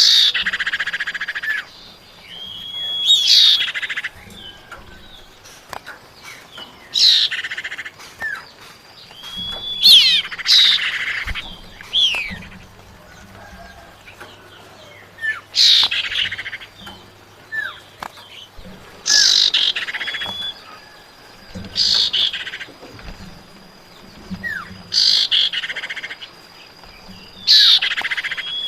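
Female common iora (cipau) calling, a lure call meant to draw in males: a short rasping, chattering phrase with a held whistle, repeated about every three seconds.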